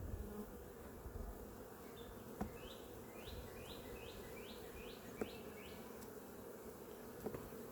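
Honeybees buzzing around an open hive, a steady low hum. In the middle a quick run of about eight short high chirps sounds over it.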